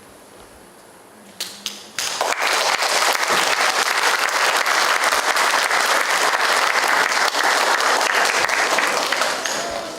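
Audience applauding: a few scattered claps about a second and a half in, then full applause from about two seconds in, tailing off near the end.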